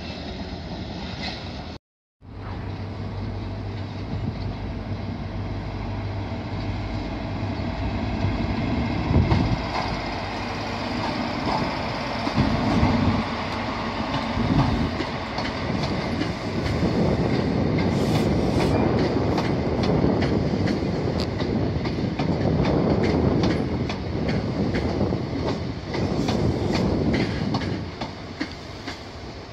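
First Great Western High Speed Train passing: the Class 43 diesel power car's engine hums steadily, then the Mark 3 coaches' wheels click over the rail joints in a quick clickety-clack through the second half. A brief dropout about two seconds in.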